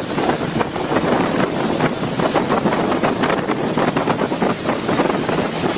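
A vehicle pushing through a flooded river: loud, steady rushing and splashing water, with wind buffeting the microphone.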